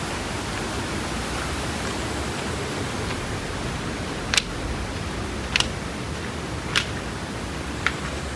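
Steady roar of a waterfall's falling water. Four short, sharp clicks come a little over a second apart in the second half.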